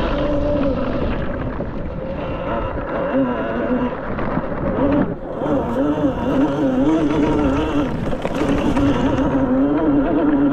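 Beta Explorer electric dirt bike's motor whining as it is ridden hard through snow, its pitch wavering up and down with the throttle over a dense rushing noise. The whine dips briefly about five seconds in, then picks back up.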